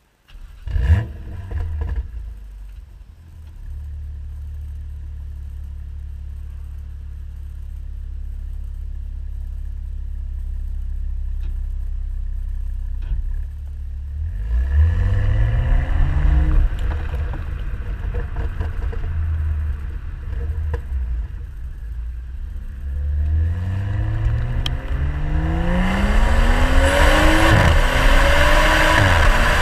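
BMW M135i's turbocharged straight-six firing up through its M Performance sports exhaust with a short flare about a second in, then settling to a steady idle. From about halfway on, the revs rise several times in rising sweeps, getting louder and fuller toward the end.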